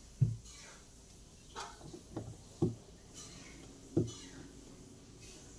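Irregular knocks and clunks from handling work on a twin-tub washing machine, five short hits in all. The loudest come about a quarter second in and about four seconds in.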